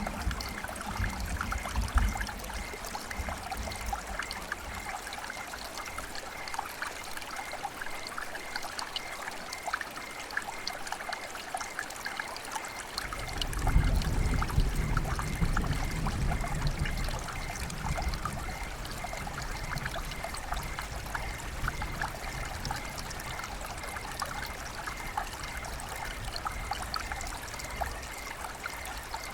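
River water flowing and trickling, a steady stream of many small splashes. About 13 seconds in, a low rumble swells and then fades over a few seconds.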